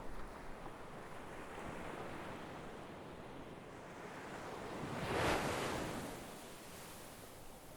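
Sea waves washing ashore: a steady hiss of surf with one wave building and breaking about five seconds in, then fading back.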